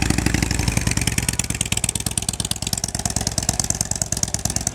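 Harley-Davidson Dyna Low Rider's V-twin engine running with a rapid, steady beat as the motorcycle pulls away, slowly getting quieter.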